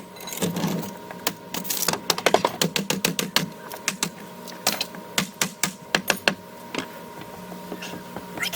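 Demolition of a wooden deck railing played back sped up: hammer blows and prying knocks on wood come in rapid clusters of sharp clicks, several a second.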